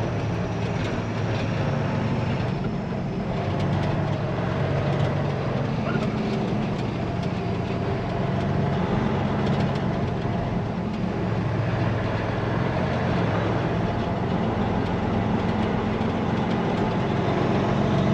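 Peterbilt semi truck's diesel engine running steadily through straight-pipe exhaust.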